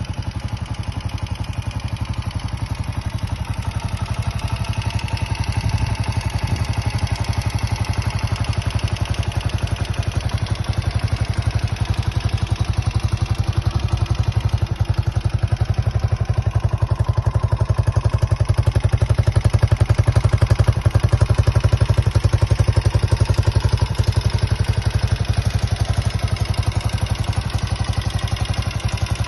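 Honda CG125's single-cylinder four-stroke engine running at a steady idle, getting a little louder for a few seconds past the middle.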